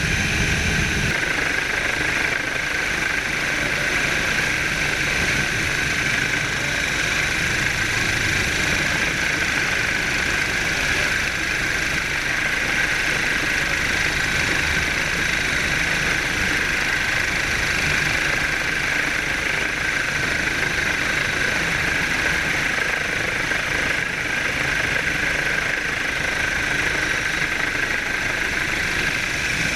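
A steady engine drone that stays unchanged throughout, with its low rumble dropping away about a second in.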